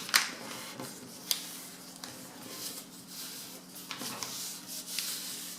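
A folded sheet of paper rustling and being creased by hand, with a few sharp crackles as it is pressed and handled.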